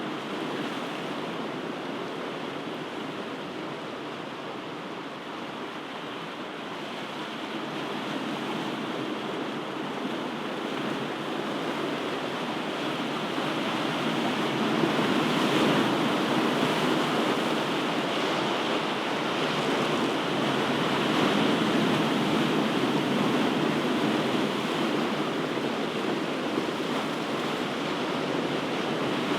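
Ocean surf: a continuous wash of breaking waves that swells in loudness over the first half and then stays full.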